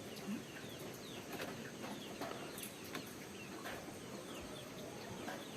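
Faint chicken calls: scattered short, falling chirps and soft clucks, with no single loud call.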